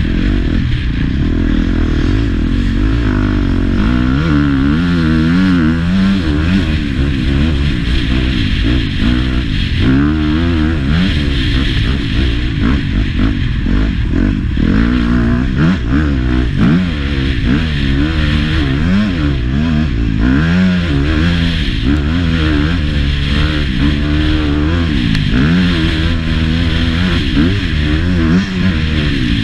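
Motocross bike engine under way, its pitch rising and falling again and again as the throttle is opened and closed.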